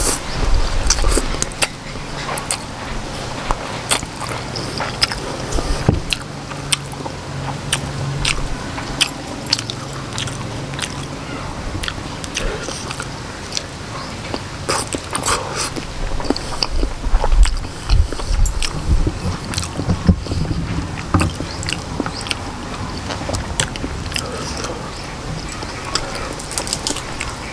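Close-miked mukbang eating: chewing and biting of Khmer rice noodles and octopus in chili sauce, with many sharp wet mouth clicks scattered throughout. A mouthful of noodles goes in with a loud burst in the first second.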